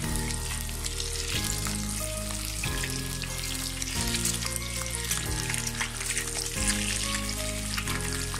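Peeled hard-boiled eggs sizzling and crackling in hot oil in a frying pan as a spatula turns them, with steady background music underneath.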